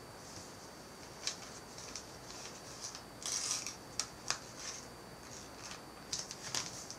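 A sheet of paper being folded and creased by hand: rustling with scattered sharp crinkles and clicks, the loudest rustle about three seconds in.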